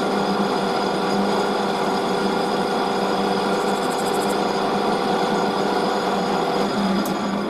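Metal lathe running steadily at 755 RPM during a light boring pass with a CCGT-tipped boring bar.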